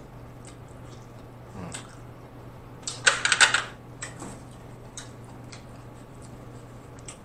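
Close-miked eating: a short burst of crisp, crunchy crackling about three seconds in, with scattered faint mouth clicks and smacks around it, over a low steady hum.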